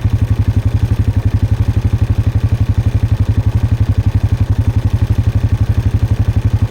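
ATV engine running steadily as it climbs a trail, with an even low pulse that holds unchanged throughout.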